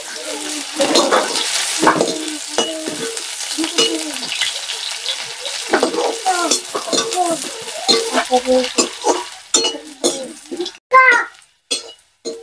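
Sliced onions sizzling in hot oil in a steel kadhai, stirred with a perforated steel skimmer that scrapes and clinks against the pan.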